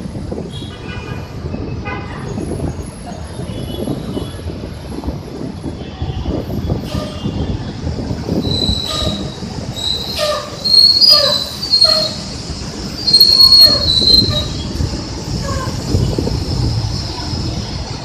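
A Transjakarta bus engine running with a low rumble while the bus brakes, its brakes squealing high-pitched in several loud stretches through the middle.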